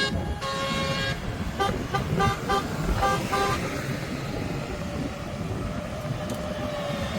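Vehicle horns tooting: a longer toot about half a second in, then a run of short toots around two and three seconds in, over a steady engine rumble.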